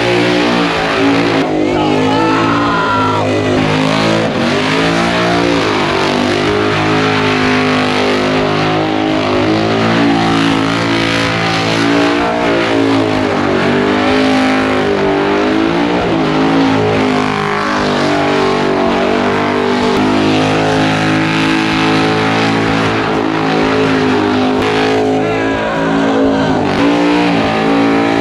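Burnout car's engine held at high revs during a burnout, its pitch wavering up and down as the throttle is worked, with the spinning rear tyres squealing underneath. Really loud.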